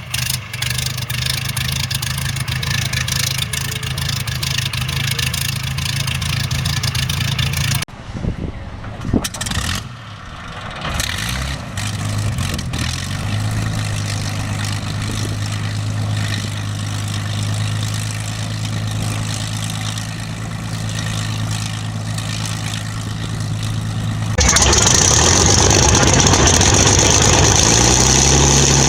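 Hawker Hurricane's Rolls-Royce Merlin V12 aero engine running during a cold start. About eight seconds in, the sound breaks into a few seconds of uneven pops and gaps, then the engine catches and settles into a steady run, its pitch climbing briefly. Near the end it jumps abruptly louder, with a hiss added.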